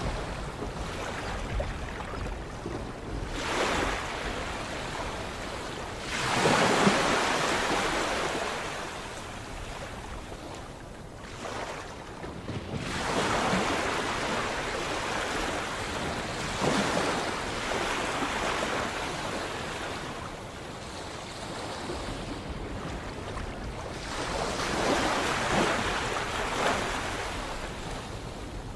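Sea waves breaking and washing ashore in a series of surges every few seconds, the biggest about seven seconds in, over a steady rushing hiss of water.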